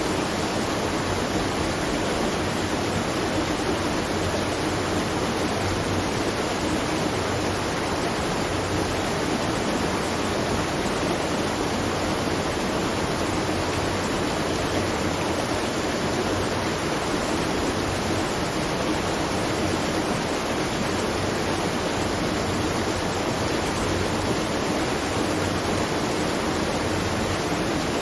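Steady rush of water pouring at a watermill, an even, unbroken sound with no knocks or pauses.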